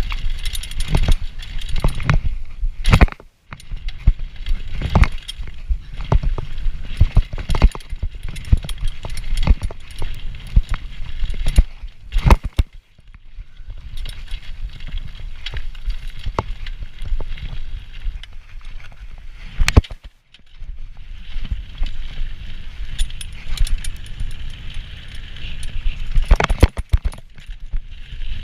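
Diamondback Heist 2.0 hardtail mountain bike ridden along a bike-park trail: constant tyre rumble and wind noise with frequent sharp knocks and rattles from the bike, broken by a few brief quiet gaps.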